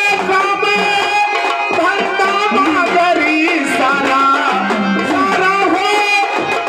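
Live Marathi gondhal folk music: a dholki drum keeps a rhythm under a wavering melody line.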